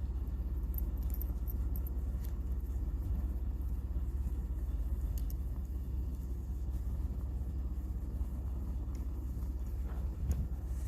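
Campfire burning, with a few faint sharp pops and crackles over a steady low rumble.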